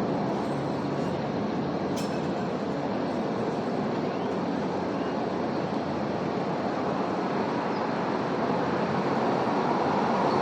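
Steady rushing noise of passing vehicle traffic, growing a little louder near the end, with a faint click about two seconds in.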